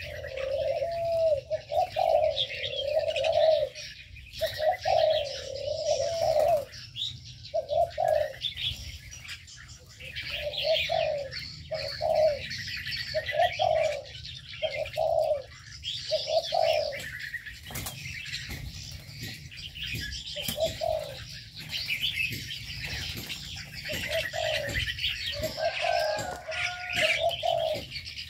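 Doves cooing over and over, low repeated phrases, under a steady chorus of high chirping from many small birds.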